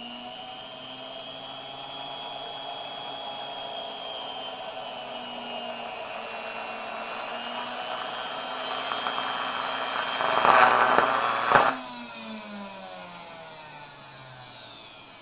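Small Hoover vacuum-cleaner motor with its brushes wired straight to power, whining at high speed (the run reaches about 16,500 RPM) with its pitch slowly rising. About ten seconds in it gives a loud crackling burst, then winds down with a falling whine as it fails; the owner thinks the soldering came off the brushes.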